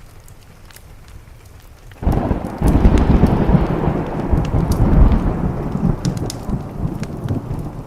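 A thunderclap breaks in suddenly about two seconds in and rolls on as a long rumble that slowly fades, over steady rain and the crackle of a wood fire.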